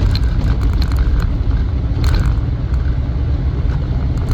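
Cabin noise of a Land Rover Defender 90 under way: its 4.0-litre V8 running steadily with road rumble and a few light clicks.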